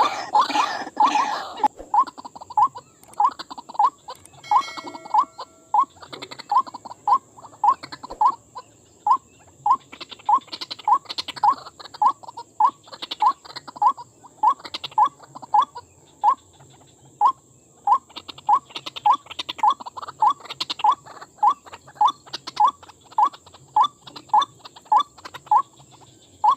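White-breasted waterhen (dahuk) calling: one short, slightly rising note repeated about twice a second, on and on without a break.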